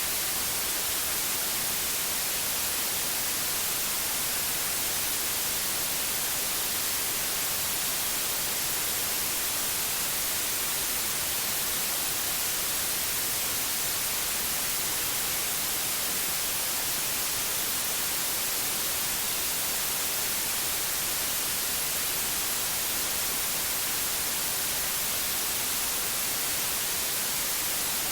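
Steady, unchanging white noise: an even hiss with most of its energy in the high frequencies, with no tones or breaks.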